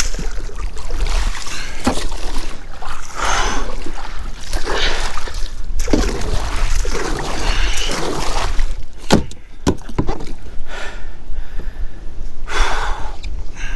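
Strong wind buffeting the microphone in a steady low rumble, with water splashing around a kayak in repeated swells every second or so and two sharp knocks about nine seconds in.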